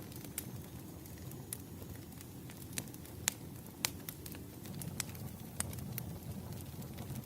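Wood fire crackling: irregular sharp pops and snaps over a low steady rumble of burning logs, with the loudest pops a little past halfway.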